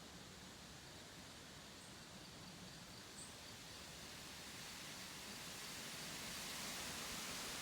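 Faint, steady background hiss that slowly grows louder, with a row of faint high chirps through the middle.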